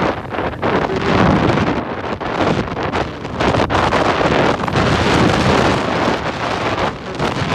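Strong wind buffeting the microphone in loud, fluctuating gusts.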